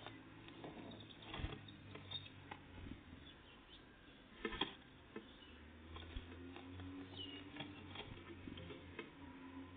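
Small taps, scratches and clicks of tits working at a peanut feeder, pecking and tugging at the nuts, with the sharpest knocks about a second and a half and four and a half seconds in. A few faint, short tit calls and a low steady hum underneath.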